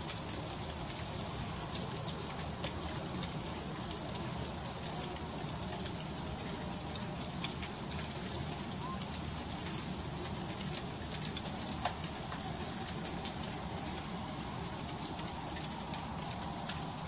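Freezing rain in an ice storm: a steady patter of many small, sharp ticks as the icy drops strike hard surfaces, over a low steady rumble.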